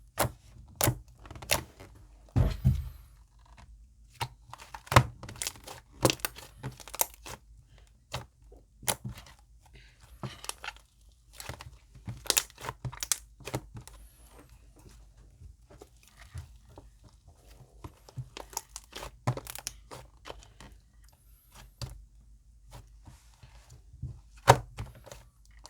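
Bubbly slime being squished and stretched by hand, giving irregular sharp crackles and pops as trapped air bubbles burst.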